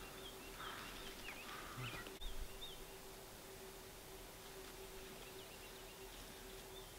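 Faint small-bird chirps outdoors: short, high, hooked notes repeated every half second or so, in bouts early and again near the end.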